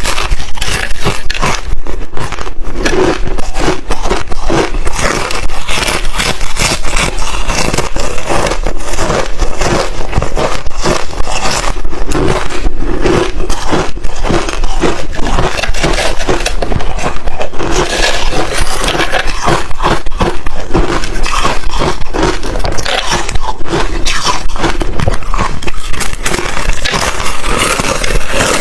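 Close-miked chewing of crushed ice chips: a dense, continuous run of loud crunches as the ice cracks between the teeth.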